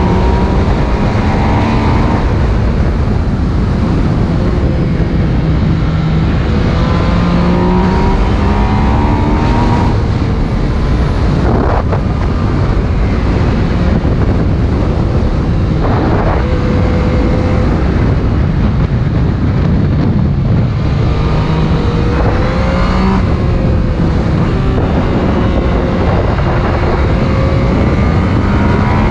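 Yamaha MT-09's 847 cc inline-three on its stock exhaust, ridden hard along a mountain pass. The revs climb and drop again and again with wind rush on the microphone.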